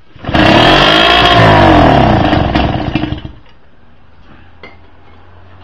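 1972 British Seagull Silver Century Plus outboard's single-cylinder two-stroke engine running loudly. It comes in abruptly, its pitch rises and falls once as it is revved, and it dies away about three seconds in.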